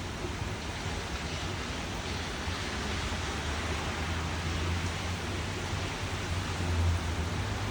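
Rain falling steadily as an even hiss, with a constant low rumble underneath that swells briefly near the end.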